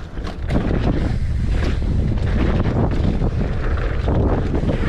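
Wind rushing over the microphone as a mountain bike rides a dirt trail. A loud low rumble sets in about half a second in, with scattered knocks from the bike over the ground.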